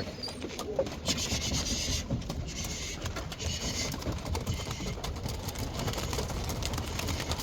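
Rubbing and scraping with many small clicks and a hissy rush from about one to three and a half seconds in, as a pigeon box is opened and the roller pigeons are let out.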